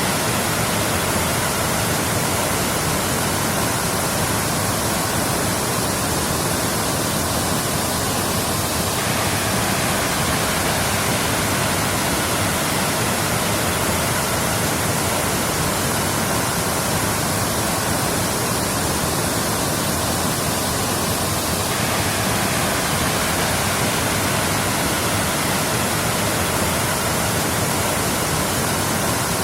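Waterfall: water falling and rushing in a steady, even wash of noise.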